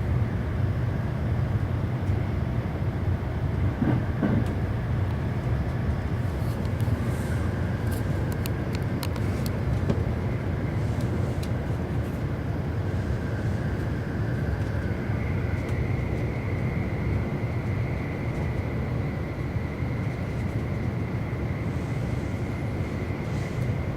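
E259 series electric train running at speed, heard from inside the passenger car: a steady low rumble of wheels on rail. A high steady whine joins about two-thirds of the way through.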